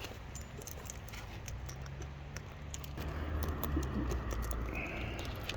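Soft, irregular clicking and tapping from cockatoos nibbling food and shifting about, over a low, steady rumble.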